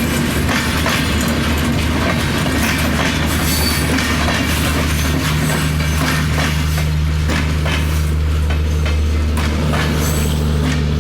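Chitra Express passenger train running on the track: wheels clacking irregularly over the rail joints over a steady low rumble, with a steady hum joining about five seconds in.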